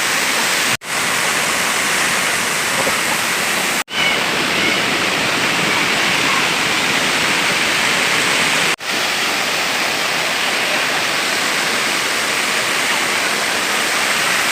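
Steady rushing roar of a waterfall, broken three times by a sudden, very brief gap.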